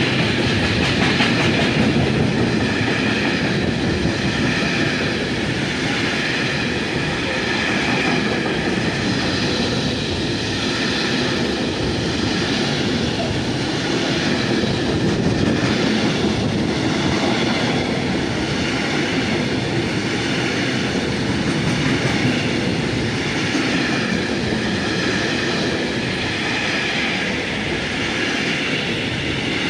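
Train running, a loud steady noise with no clear beat or break.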